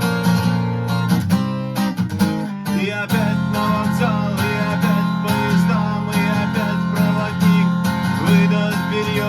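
Acoustic guitar strummed in a steady rhythm; about three seconds in, a gliding lead melody comes in over the chords.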